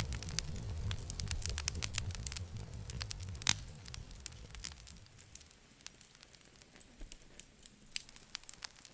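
Campfire burning, wood crackling with many irregular pops, one sharp pop about three and a half seconds in. A low rumble under the crackle fades out about five seconds in, leaving sparser crackling.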